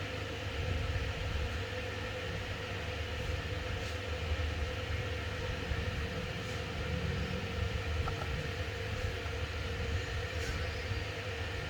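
A steady low rumble with a faint constant hum, like a running appliance or motor.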